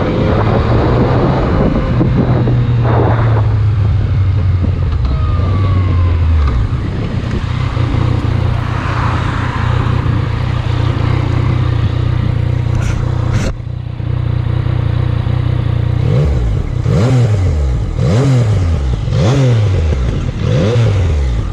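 Yamaha MT-09's three-cylinder engine idling steadily on its stock exhaust, with other vehicle engine sound around it. Over the last five seconds an engine's pitch rises and falls several times.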